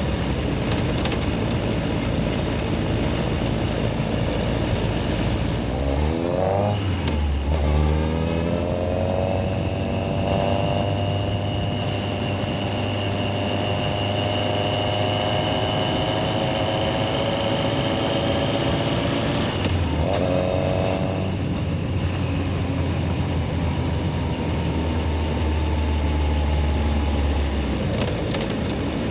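Yamaha XJR1300's air-cooled inline-four engine idling, then revving up as the bike pulls away, with a break for a gear change. It then runs at a steady speed and drops back to a low idle hum about twenty seconds in.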